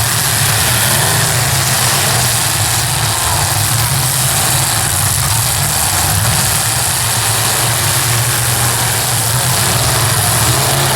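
Demolition derby car engines running with a steady, loud low rumble.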